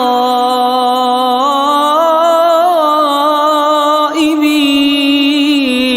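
Quran recitation: one voice chanting in long, ornamented held notes, drawing out the words of a verse in melodic tartil, with a brief break about four seconds in.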